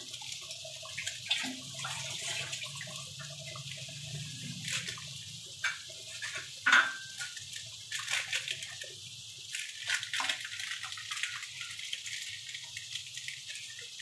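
Onions and ginger-garlic paste frying in oil in a pan: a steady sizzle with scattered crackles and pops.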